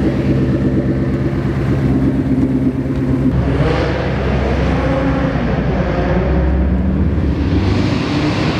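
Ford Mustang V8 engine and exhaust running steadily at low revs, then revving up as the car pulls away about three seconds in, with a second surge near the end.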